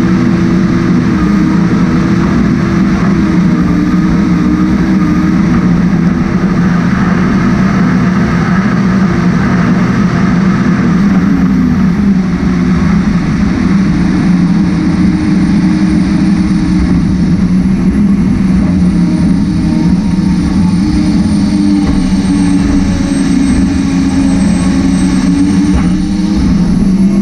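A race jet boat's engine running loud and steady, with a thin high whine above it that drifts slowly in pitch.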